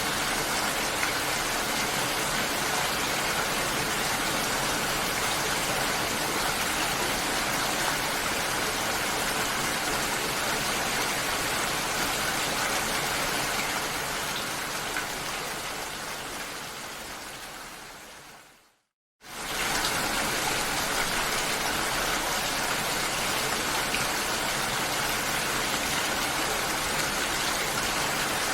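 Steady rain-like water hiss that fades out over several seconds about two-thirds of the way through, falls silent for a moment, then starts again abruptly at full level.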